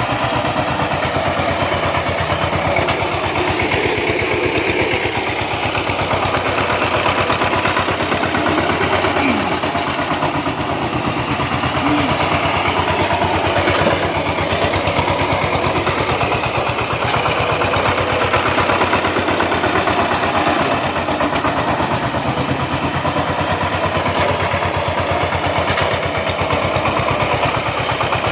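Single-cylinder diesel engine of a VST Shakti 130-DI power tiller running steadily, a fast even chugging with no revving.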